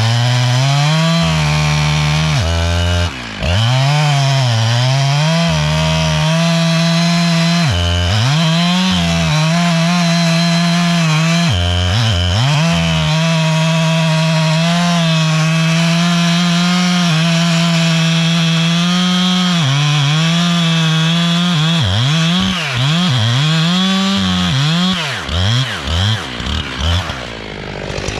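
Jonsered two-stroke chainsaw cutting into a pine trunk at full throttle, its pitch repeatedly dipping as the chain loads up in the wood and climbing back. Near the end it comes off full throttle and is revved in a few short bursts.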